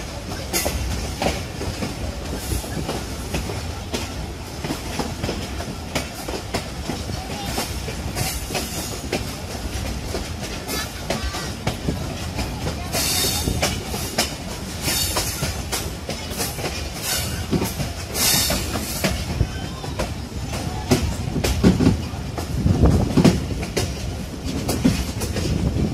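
Passenger train running along the track, heard from a carriage window: a continuous rumble of wheels on rails with frequent clicks from the rail joints. A few brief high-pitched bursts come about halfway through, and some heavier knocks near the end.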